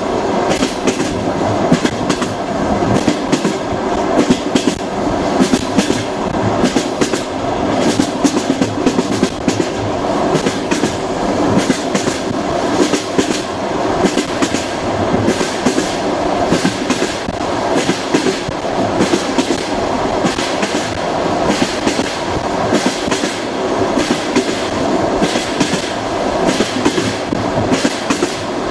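Russian passenger train's wheels clacking over rail joints: a steady rumbling running noise with frequent sharp clicks all through, heard from inside the carriage.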